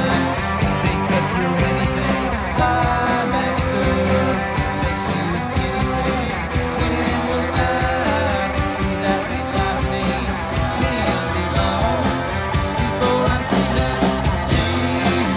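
Live rock band playing a song, guitar to the fore over a steady beat.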